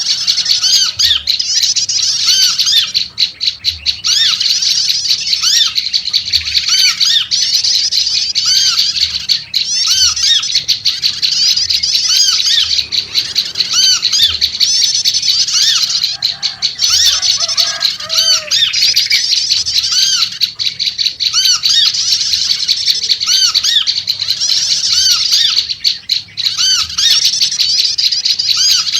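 Prenjak lumut birds chattering loudly and without pause in a fast, high-pitched, scolding run, with a short rising-and-falling note repeating about once a second. A few lower notes come in about two-thirds of the way through.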